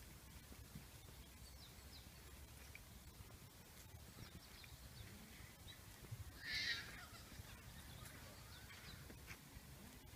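Faint outdoor ambience with small birds chirping here and there, and one louder, short call about two-thirds of the way through.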